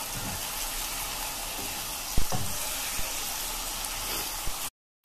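Yard-long beans and raw plantain sizzling steadily in coconut oil in a pan as they are stirred with a wooden spatula, with a few knocks of the spatula against the pan, the loudest a little over two seconds in. The sound cuts off suddenly just before the end.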